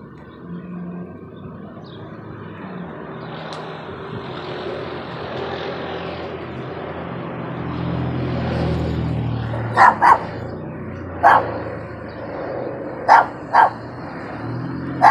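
Helicopter flying overhead, its steady rotor and engine noise growing louder as it approaches. A dog barks about five times in the second half, in short sharp barks, some in quick pairs.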